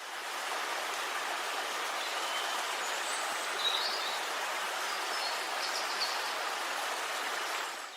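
Steady rain falling, an even hiss that fades in at the start and fades out at the end.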